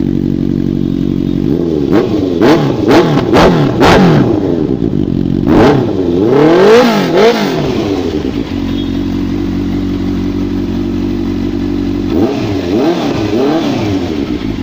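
Honda CBR650 motorcycle's 650 cc inline-four engine idling and being revved by hand: a quick run of short throttle blips, a longer rev a little later, back to a steady idle, then two more blips near the end.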